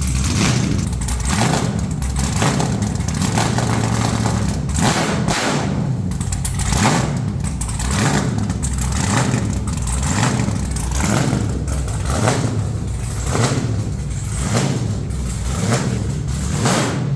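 Methanol-fed LS V8 in a burnout truck running loud, its sound surging about once a second. At this first run it is burning a little extra methanol.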